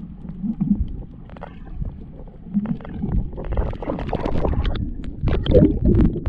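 Water sloshing and bubbling close to the microphone in irregular surges, with sharp splashy clicks that grow busier and louder after about three seconds.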